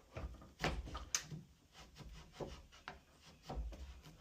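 Wood chisel pushed by hand, paring and scraping wood out of a lock mortise in a door, with a string of short knocks and scrapes at irregular intervals.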